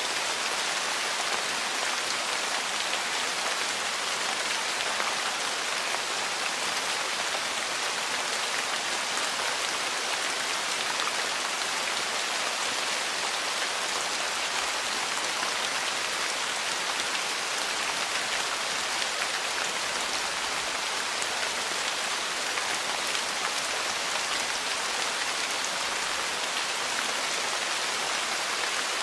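Steady rain falling on a porch, an even hiss with a fine patter of drops.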